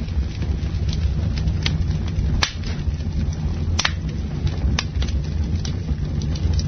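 Campfire burning: wood crackling with small scattered snaps over a steady low rumble, and three sharper pops in the middle.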